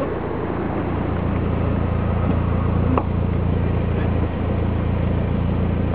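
Audi TT 225's 1.8-litre turbocharged four-cylinder engine running steadily through its exhaust, a deep, even drone that builds slightly over the first second and then holds. A brief click comes about halfway through.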